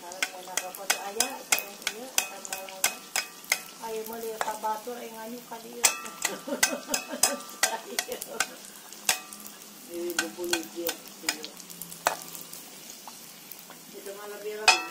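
Kue cucur batter deep-frying in an aluminium wok, the oil sizzling, while a metal spoon and a bamboo skewer work the cake. Many sharp clicks and scrapes of the spoon against the wok, the loudest near the end.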